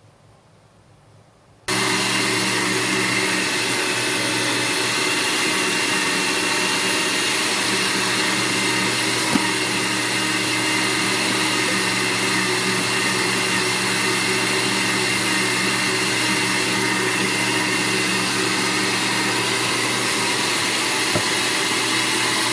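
Electric meat grinder switching on about two seconds in and running steadily with a constant motor hum, grinding bread through to clear the last meat from the blade. A couple of small clicks sound over the running motor.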